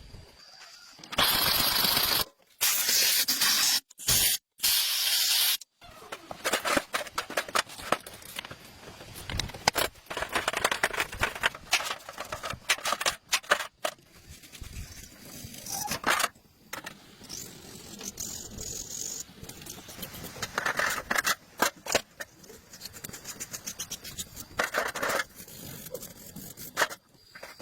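Hissing spray in loud stretches broken by abrupt cuts, then a mix of hissing and short scraping and rubbing strokes.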